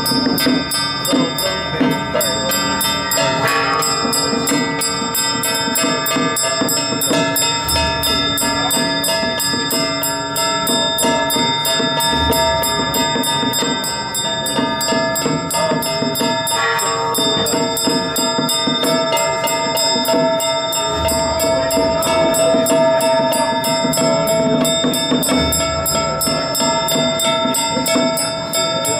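Continuous ringing of bells mixed with music, with many held tones and a dense, fast, even jingling.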